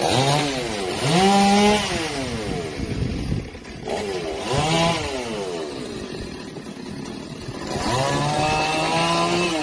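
Chainsaw engine revving up and easing off several times, held at high speed for a second or so each time.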